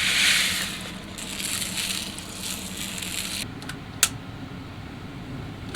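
Food sizzling and crackling in a frying pan, loudest at first, dying away about three and a half seconds in, followed by a single sharp clack.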